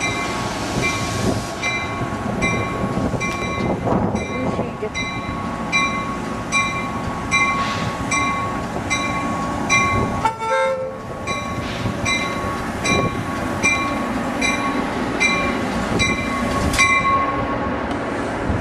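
A train runs in the station with a steady rumble and a regular ringing ding, about three every two seconds, broken briefly about ten seconds in.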